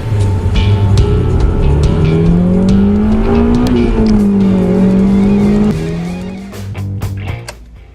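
Honda CR-V's 1.5-litre turbocharged four-cylinder engine under acceleration: its note climbs for about three seconds, eases back, then drops sharply near the end as the sound fades.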